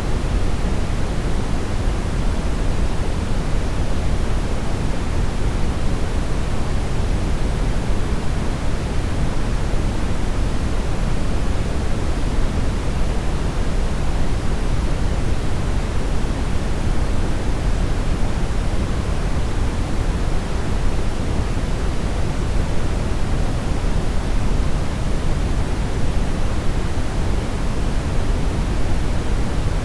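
Steady synthetic brown noise: an even, deep rushing hiss, strongest in the low end and dull at the top, with no change throughout.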